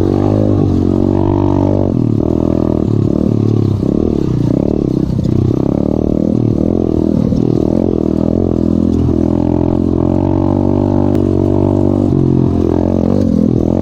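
Coolster 125cc pit bike's single-cylinder four-stroke engine being ridden, its revs rising and dropping back over and over.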